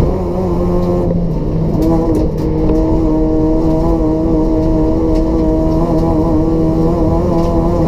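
Race-built Toyota Etios's 1.5-litre petrol engine with free-flow exhaust running hard at steady high revs. About a second in the engine note breaks up briefly, then settles back to a steady, slightly lower pitch, as in a lift or gear change.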